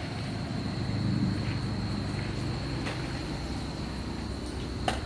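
Steady high-pitched insect chirring over a low background rumble, with one sharp click near the end.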